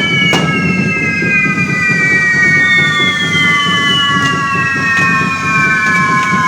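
Fireworks going off: several long whistling tones overlap, each sliding slowly downward in pitch over a few seconds. A couple of sharp cracks come near the start and a fainter one midway, over a steady rumble.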